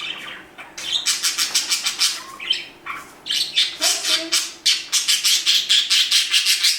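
A budgerigar squawking: harsh, scratchy calls, a few spaced out at first, then a rapid steady run of about six a second from about halfway. It is the bird's protest at its owner giving attention to the other bird.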